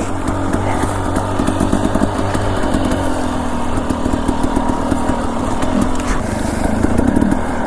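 Dirt bike engine running as the bike is ridden along a trail, its note shifting with the throttle about three seconds in.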